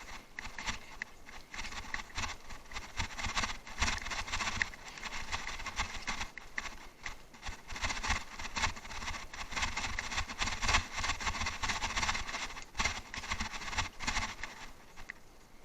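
Bicycle rattling over rough off-road ground, an irregular dense clatter of knocks and crunches with low bumps throughout.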